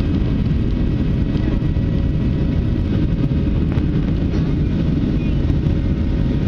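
Steady cabin noise of a Boeing 737 airliner in flight: a loud, even low rumble of the turbofan engines and rushing air, with a faint steady hum of higher tones over it.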